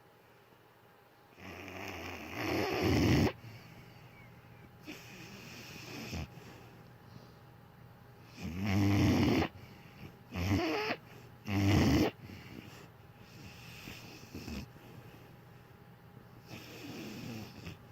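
A dog snoring in its sleep, in irregular snores. There are four loud ones, the first about two seconds in and three close together in the middle, with softer snores and breaths between.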